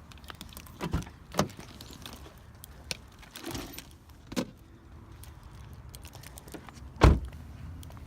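Handling knocks and clicks around a car, with a short rustle in the middle and a heavy thump about seven seconds in.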